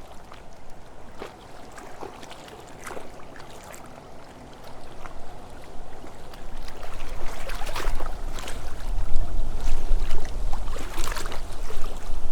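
Wind gusting, with a low rumble of wind on the microphone building from about halfway through and growing loud, over scattered short rustles and clicks.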